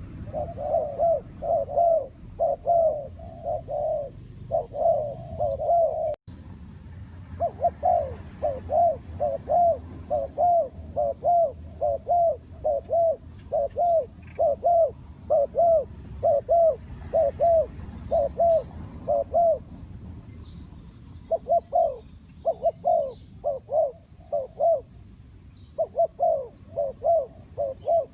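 Spotted dove cooing: a long run of repeated low coo notes in phrases with short pauses between them, broken by a brief silence about six seconds in. Faint high chirps of small birds sound in the background.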